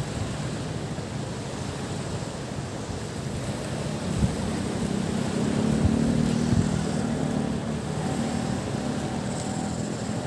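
Waves washing on a beach, with wind on the microphone. From about four seconds in, a motor's hum swells, peaks and fades again by about eight seconds.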